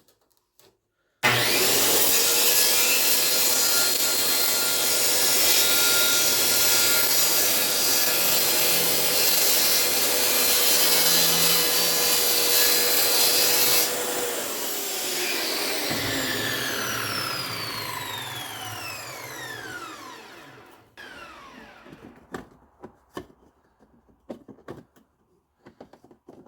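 An electric power saw cutting a piece of wood: the motor starts abruptly about a second in and runs steadily at full speed with the blade in the cut for about 13 seconds. It is then switched off, and its pitch falls as the blade spins down over several seconds until it stops, followed by a few faint knocks.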